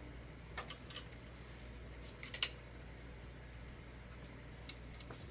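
A few light clicks and taps, the sharpest about two and a half seconds in, over a low steady hum.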